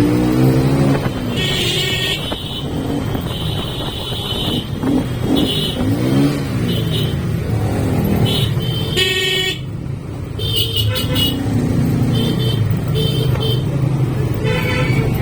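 Motorcycle engine running on the road, its pitch rising and falling as the throttle changes, with vehicle horns honking in short blasts again and again.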